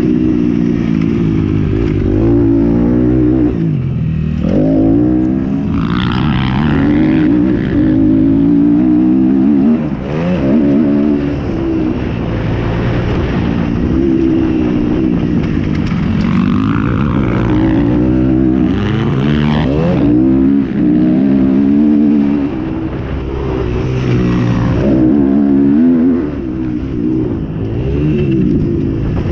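Motocross motorcycle engines revving hard and easing off, their pitch rising and falling again and again.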